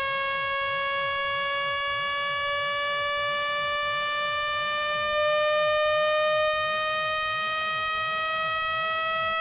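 Electronic speaker-cleaning tone: one buzzy synthesized note gliding slowly upward in pitch, played to vibrate a phone speaker's diaphragm and shake out water and dust. It gets a little louder for a moment past the middle.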